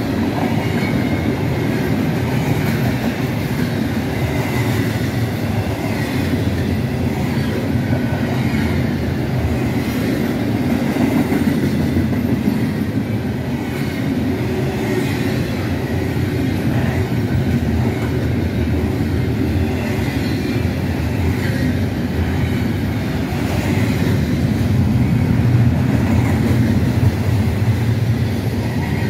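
Freight train of double-stack container cars and tank cars rolling past, its wheels running steadily on the rails.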